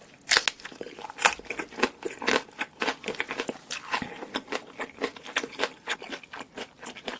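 Close-miked eating: a person biting and chewing food, with a quick, irregular run of sharp crunchy clicks and smacks; the loudest bites come just after the start and about a second in.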